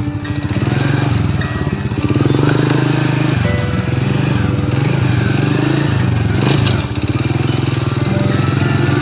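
Motorcycle engine running and revving up and down as the bike rides, with a brief drop in revs about six and a half seconds in.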